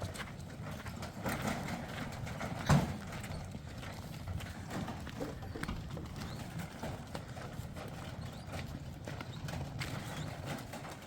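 Irregular knocks and clatter of hard objects, with one loud thump nearly three seconds in.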